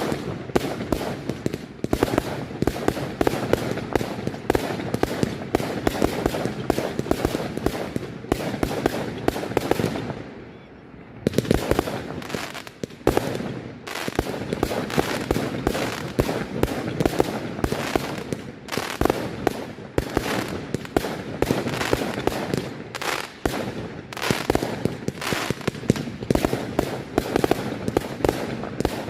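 Firework display: a dense, continuous barrage of bangs and crackling shell bursts, easing into a brief lull about ten seconds in before building up again.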